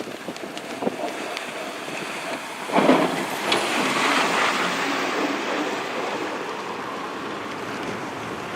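Blizzard wind rushing and buffeting the microphone. It swells suddenly about three seconds in, then eases off slowly.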